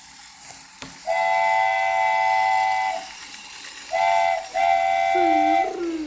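Battery-operated toy train's electronic whistle sounding three steady chord-like toots: a long one, a short one and another long one. A click comes just before the first toot.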